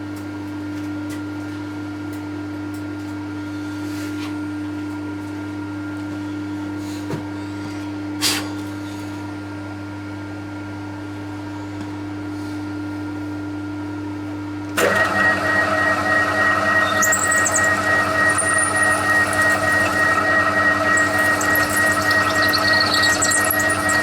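TOS milling machine running with a steady hum; about fifteen seconds in, the cutter bites into metal and a much louder pulsing, ringing cutting noise takes over.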